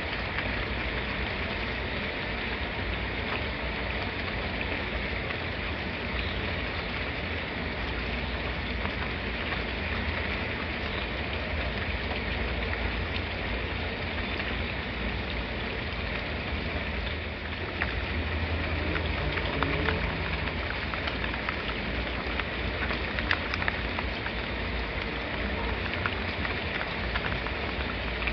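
Steady rain falling, with a low rumble underneath and a few sharper drop hits in the second half.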